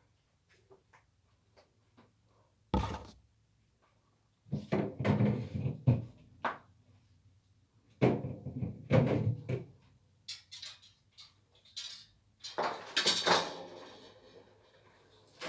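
Items being taken out of a refrigerator and handled: a few faint ticks, a sharp knock about three seconds in, then several bouts of clattering and scraping of containers and shelves being moved and set down.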